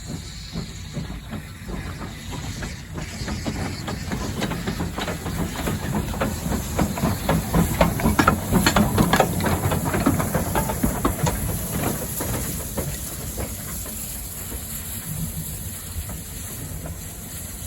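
A train passing with a hiss and rapid clicking over the rails, swelling to its loudest about eight to ten seconds in and then fading away.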